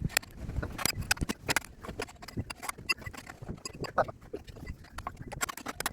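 Rapid, irregular metallic clicks and knocks of hand tools working at a stuck, tight part on an engine.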